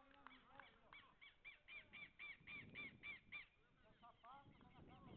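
A bird calling in a quick series of about ten rising-and-falling notes, some four a second, with fainter scattered calls before and after.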